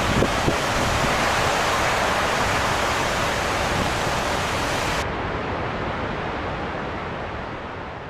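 Storm soundscape of heavy rain and wind, a steady loud rushing noise. About five seconds in the hiss cuts away suddenly, leaving a duller, muffled rush that fades out.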